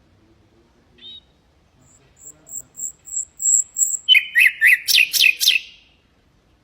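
Nightingale singing: a short call, then a row of about eight thin, high repeated whistles, then a fast run of loud sharp notes that stops about a second before the end.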